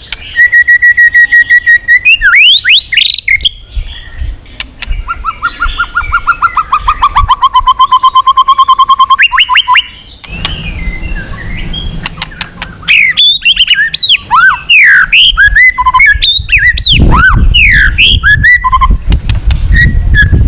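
White-rumped shama singing loud, varied song. It opens with a held whistle, then gives rapid pulsed trills, one sliding slightly down in pitch over a few seconds, and near the end a dense run of quick up-and-down whistled notes.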